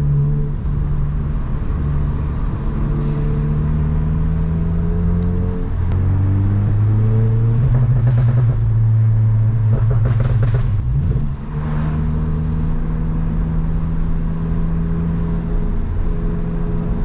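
Volkswagen GTI's turbocharged four-cylinder engine driving along a winding road. It runs steady at first, drops in pitch about six seconds in, then climbs steadily as the car accelerates. It breaks briefly near eleven seconds and settles at a higher steady pitch.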